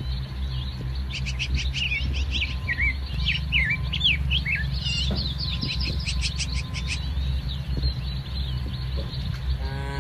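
Small birds chirping in quick runs of high twittering calls for several seconds, over a steady low rumble.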